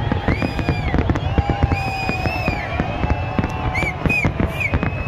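Large fireworks display: a dense run of bangs and crackling bursts, with high held whistling tones sounding over them.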